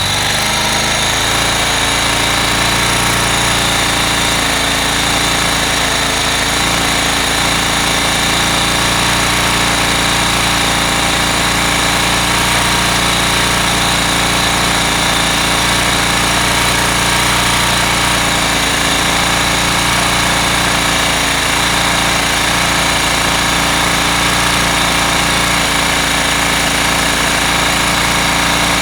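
Mash X-Ride 650's single-cylinder four-stroke engine idling steadily on its first run after an oil and filter change.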